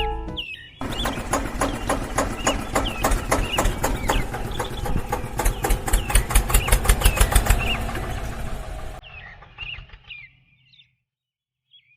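An engine running with a fast, even chugging beat that grows louder past the middle, then cuts off about nine seconds in.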